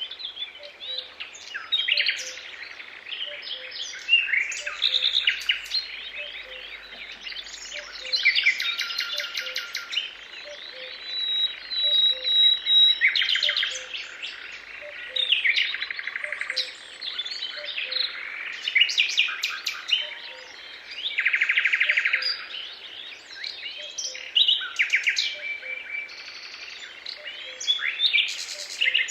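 Several songbirds singing at once in a dawn-chorus-like mix of rapid chirps, trills and whistled notes. Beneath them a faint, low, short note repeats evenly about every half second or so.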